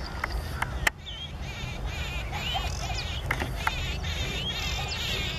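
Small birds chirping and warbling again and again, with quick rising and falling calls, over a steady low rumble. A sharp click about a second in is the loudest sound.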